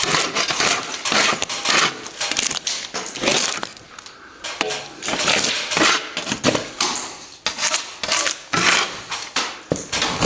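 Metal scraper scraping loose, water-damaged paint off a plaster wall in repeated short, scratchy strokes, with a brief pause near the middle.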